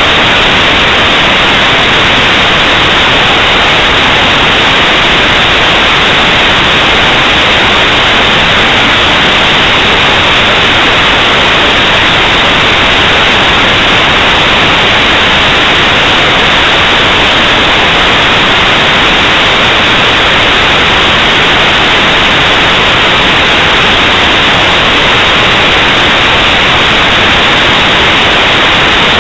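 Loud, steady static hiss that never changes, dull and without any high treble.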